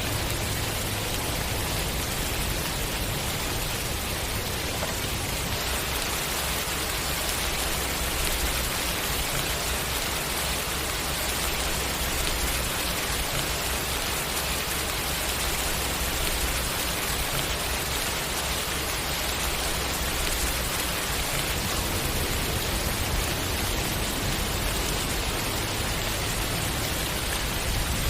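Steady rain falling on a surface, an even hiss with no let-up or change in level.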